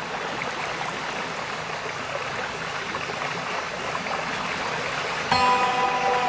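Steady rushing hiss of rain. About five seconds in, a set of steady held tones starts suddenly and keeps going.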